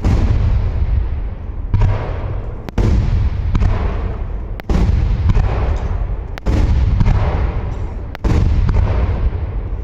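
Aerial fireworks shells bursting overhead: about six deep booms, one every second and a half to two seconds, each trailing off in a low rumbling echo that runs into the next.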